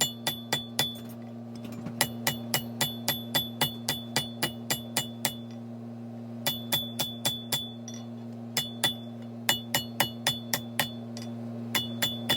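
Hand hammer striking hot steel on an anvil: bright ringing clinks at about three blows a second, in several runs with short pauses between them, over a steady low hum.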